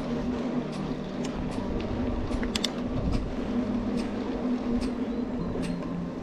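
Mountain bike riding along: a steady rolling hum of tyres and drivetrain, with scattered light clicks and rattles from the bike, the sharpest about two and a half seconds in.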